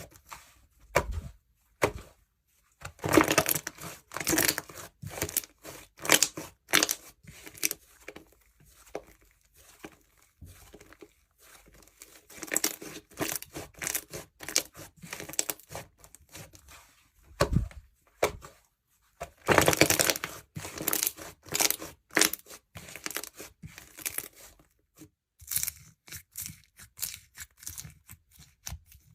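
Jewelry slime, slime mixed with beads and charms, being pressed and handled, making irregular bursts of crisp noise with short gaps between them. It is loudest about three to five seconds in and again about twenty seconds in.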